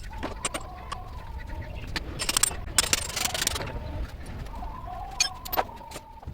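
Birds calling, with scattered sharp clicks and knocks and a short hiss about two and a half seconds in.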